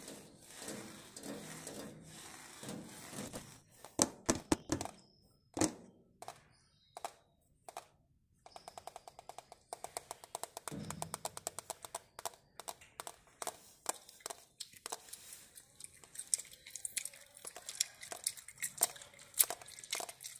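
ASMR tapping on objects: sharp taps and knocks. A few loud knocks come around four to six seconds in, then a fast run of rapid tapping from about eight seconds in that keeps going in quicker and slower patches.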